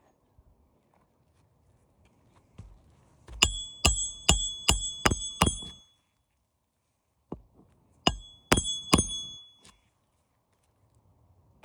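Hammer driving roofing nails to refasten a replaced roof shingle: a quick run of six ringing metal-on-metal strikes, then after a pause three more.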